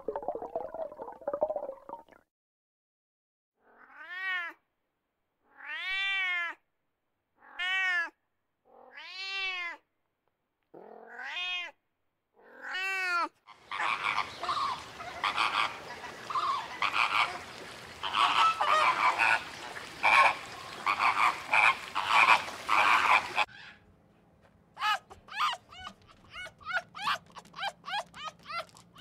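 A flock of flamingos calling together, a dense jumble of overlapping honks, fills the middle of the stretch and is its loudest part. Before it come six separate drawn-out calls from another animal, each rising then falling in pitch, spaced a second or two apart. After a short pause, a quick run of short high calls follows near the end.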